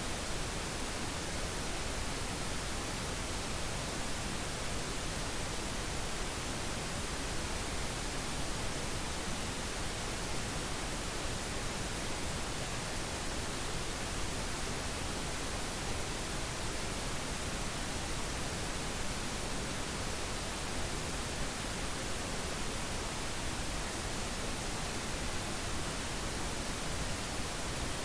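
Steady, unchanging pink noise: an even hiss.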